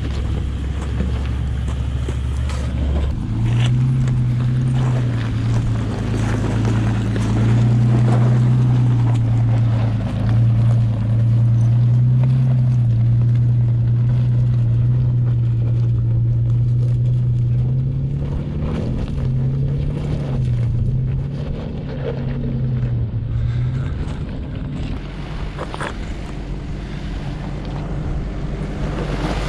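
A 4x4 vehicle's engine working at crawling speed over rocks. Its pitch rises and falls with the throttle from about three seconds in, then eases back about three-quarters of the way through.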